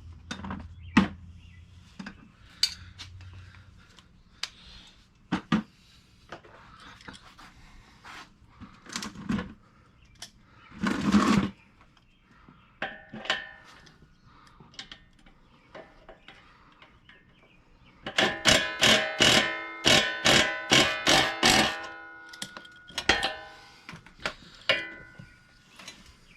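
Metal hand-tool work on a mini bike's front wheel hardware: scattered clicks and knocks, then about halfway through a quick run of roughly a dozen loud strikes on metal, each one ringing, about three a second.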